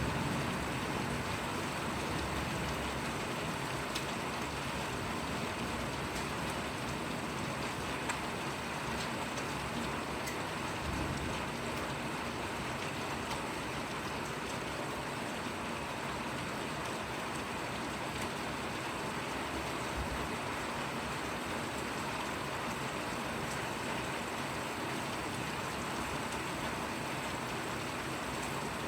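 Steady rain falling, an even hiss with a few scattered sharper drop ticks.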